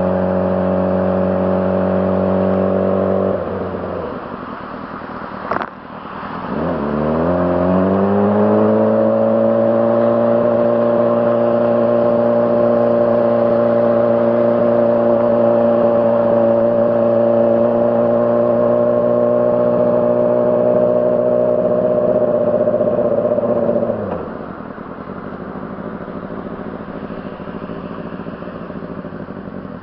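2006 Honda CBR600RR's inline-four engine held at a steady raised rev, dropping back a few seconds in, then, after a sharp click, climbing again over a couple of seconds and held at a constant high rev for about fifteen seconds before falling back to a lower, quieter running sound near the end.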